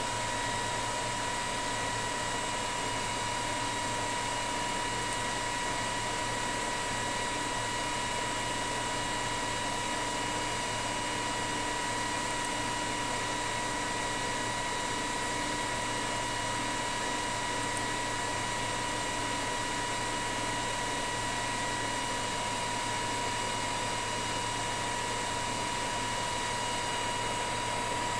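Electric motor driven by a repaired Lenze 8400 StateLine C frequency inverter on a test run, running steadily with a constant high-pitched whine over a low hum.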